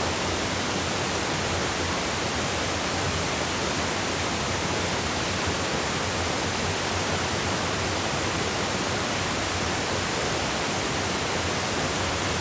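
Water pouring steadily over a man-made waterfall, close by: an even, unbroken rush of falling water.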